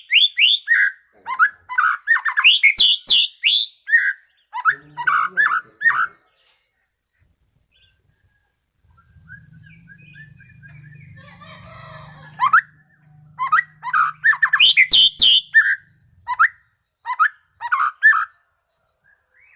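White-rumped shama (Medan murai batu) singing loud bursts of quick, sliding whistled and chattering phrases, falling silent for several seconds in the middle and then singing again. A faint low hum runs under the song through the middle part.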